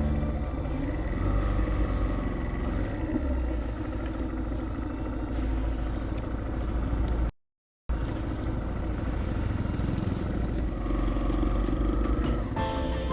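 Motorcycle riding along at a steady pace: engine and road noise with a constant low rumble. The audio cuts out to silence briefly about seven seconds in, then the riding sound carries on.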